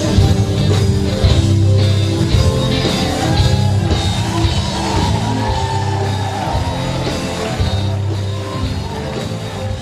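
Live gospel band music: guitar lines over sustained bass notes and a steady beat, easing slightly in loudness near the end.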